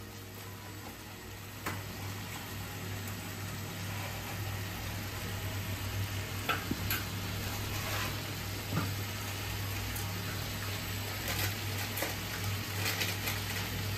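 Thick spiced masala paste sizzling and bubbling in a kadai as it fries down, with small scattered pops and spits, over a steady low hum.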